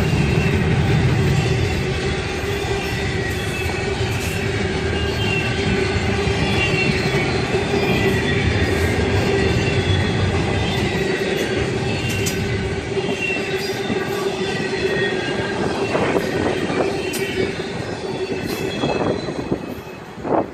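Railroad cars rolling past with their wheels squealing in several high tones over a steady rumble, with occasional sharp clicks; the sound fades near the end.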